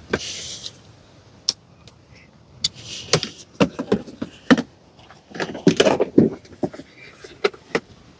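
Irregular plastic knocks, clicks and rustling as a toddler is helped into a plastic ride-on toy police car and settles in the seat.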